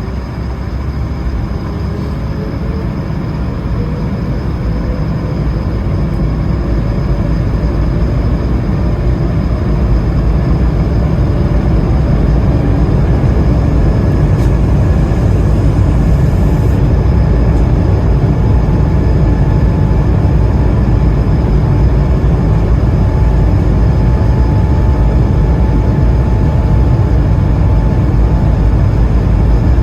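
Airbus A220-300's Pratt & Whitney PW1500G geared turbofan engines spooling up to takeoff thrust, heard from inside the cabin: the noise grows over the first ten seconds or so, with a faint rising whine, then holds as a steady loud rumble.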